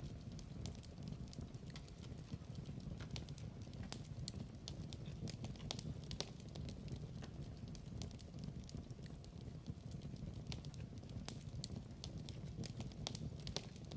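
Wood fire crackling in a fireplace: irregular sharp snaps and pops over a low, steady rumble of burning.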